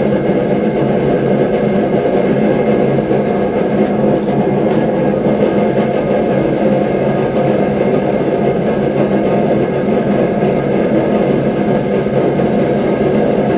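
Forge running: a loud, steady roar with a constant hum in it.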